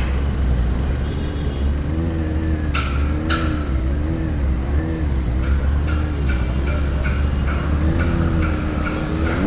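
Benelli TNT 600i inline-four engine running at low speed while the bike is ridden through a turn, its note rising and falling a little with the throttle over a steady deep rumble. Two sharp clicks about three seconds in.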